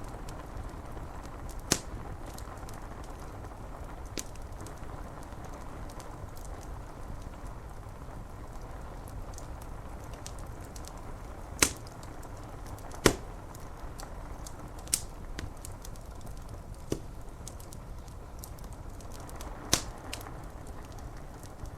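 Wood fire crackling, with a handful of sharp pops and snaps scattered through, over a steady low hiss of rain on window glass.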